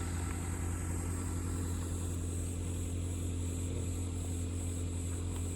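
A steady, unchanging low mechanical hum with a fixed tone above it, like a motor or engine running at a constant speed.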